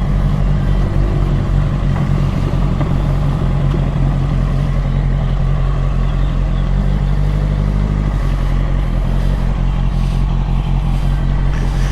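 Motorcycle engine running steadily while riding, under a constant rush of wind and road noise; the engine note shifts slightly about eight seconds in.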